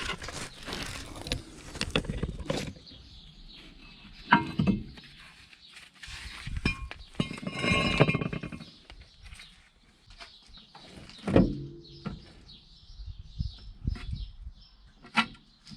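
Metal tools and car parts clinking and knocking in a run of irregular hits, with a longer scrape that has a squeak in it about halfway through.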